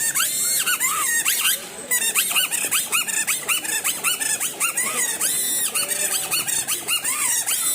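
A kathputli puppeteer's boli, a reed whistle held in the mouth, gives the puppets their squeaky chirping voice. It makes a fast stream of short high squeaks that rise and fall, several a second, with a brief break about two seconds in.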